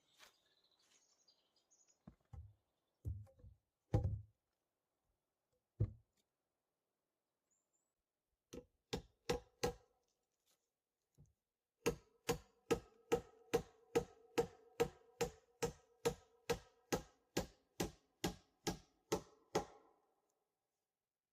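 Steady, repeated striking blows, like a tool working wood: a few heavy thuds, then a run of sharp knocks about two and a half a second, each with a short ringing tone.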